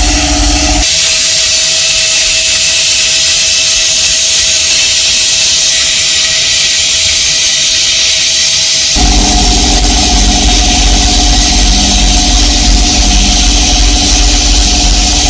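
Workshop machine running steadily with a motor hum. For about eight seconds in the middle the hum gives way to a loud hiss, then it comes back.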